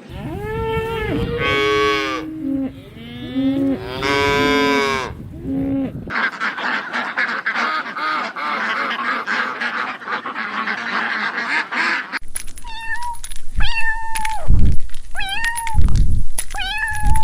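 Long, drawn-out cat meows that slide up and down in pitch. About six seconds in, a different animal recording cuts in with a dense chorus of calls. Near the middle this gives way to a run of short, repeated honk-like calls.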